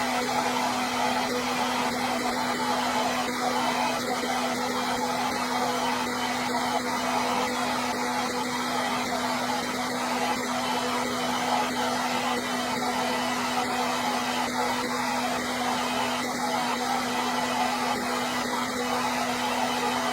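Hair dryer running steadily: a continuous rush of blown air over a steady low motor hum, with no change in speed.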